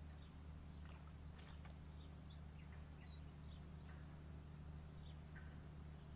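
Faint, scattered short bird chirps and little falling whistles, over a steady low hum.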